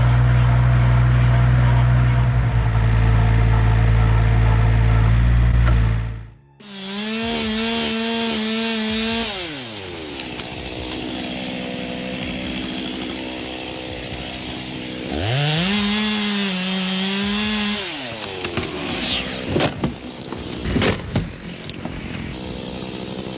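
A steady, loud low machine drone. It cuts off about six seconds in. Then a chainsaw is revved to full speed twice, each time held about three seconds before dropping back to idle, with scattered knocks near the end.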